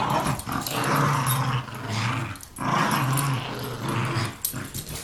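Dog growling over a toy during tug play: long, low growls, three in a row with short breaks.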